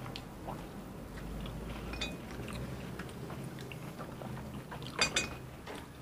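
Faint mouth sounds of people eating orange segments: soft chewing with small wet clicks, and a short burst of louder clicks about five seconds in.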